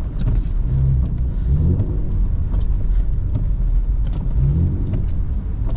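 BMW E39's engine rising and falling in revs several times as the car drifts through deep snow, over a steady low rumble, with a few short clicks.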